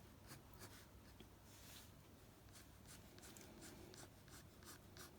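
Faint scratching of a pen drawing short, repeated strokes on watercolour paper, a few strokes a second.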